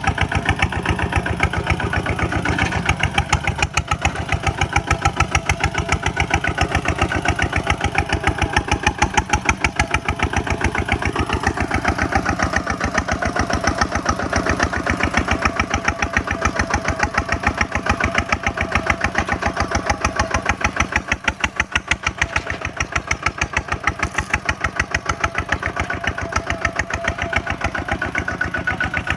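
Single-cylinder diesel engine of a Kubota walking tractor running steadily, its firing pulses coming in an even rapid beat.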